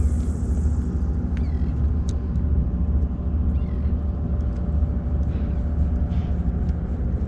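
Small outboard motor on a Gheenoe running at a steady speed, a constant low rumble with a faint hum above it. A few faint short high chirps sound over it.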